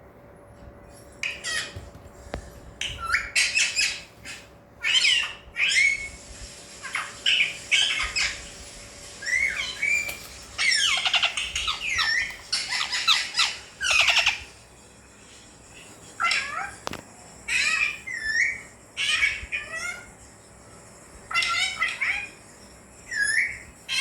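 Alexandrine parakeet giving a long run of short squawks and chattering calls, with a pause of about two seconds midway.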